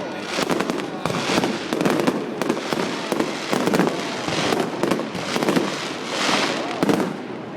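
Fireworks going off at close range: a rapid run of sharp bangs and crackles with a hissing burst about six seconds in.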